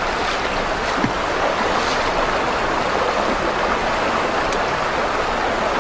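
Steady rushing of running stream water, an even hiss with a few faint clicks.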